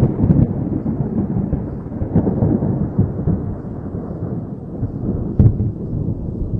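Thunder rumbling low and dying away, with a short sharp crack about five and a half seconds in.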